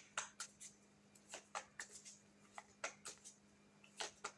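Tarot cards being handled: a dozen or so short, soft, irregular clicks and swishes of cards being flipped and slid.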